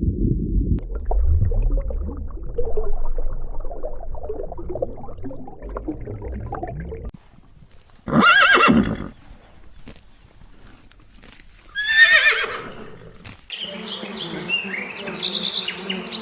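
Horse neighing: two loud, short whinnies a few seconds apart near the middle, after a stretch of low, muddled animal noise. Near the end a different sound begins, with high chirping.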